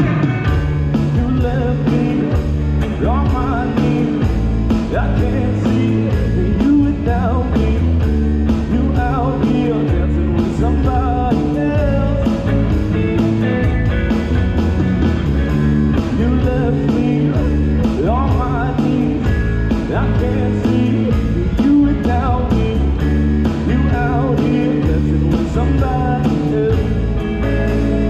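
Live band of guitar, bass guitar and drum kit playing a wordless instrumental break in a rock song, with a lead line that bends up and down in pitch over the rhythm section.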